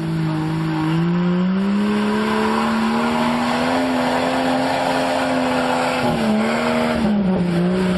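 A vehicle engine running hard under load. Its pitch rises over the first few seconds, holds steady, then dips briefly twice near the end.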